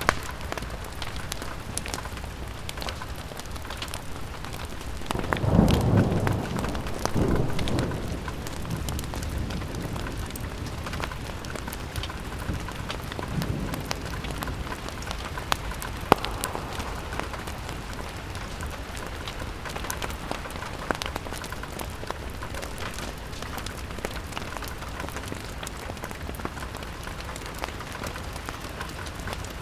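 Steady rain pattering on a window, mixed with the sharp crackles of a wood fire. About five seconds in, a low rumble swells twice and fades over a few seconds, and one loud crack stands out about halfway through.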